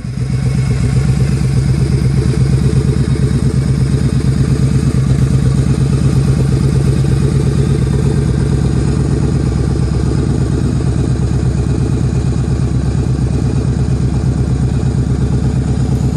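Yamaha Drag Star 1100 V-twin idling steadily through a Cobra aftermarket exhaust, with an even pulsing beat.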